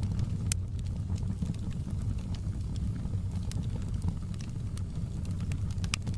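Campfire burning: a steady low rumble of flames with scattered sharp crackles and pops, one loud pop about half a second in and another near the end.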